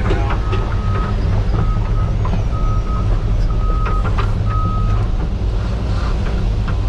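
Heavy diesel engine running steadily under load, with a backup alarm beeping five times, about once a second, stopping about five seconds in.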